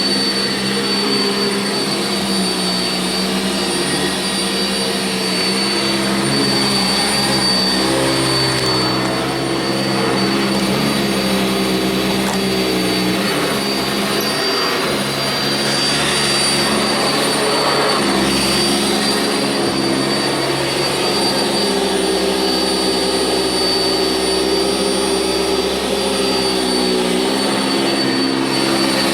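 Sanitaire SC679J upright vacuum cleaner running steadily on carpet, a continuous motor whine with its lower tones wavering slightly in pitch.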